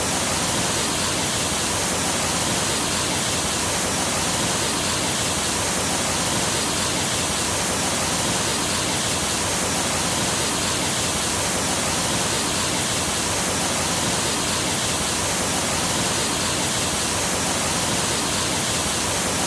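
Stream water rushing over rocks in a steady, unbroken rush.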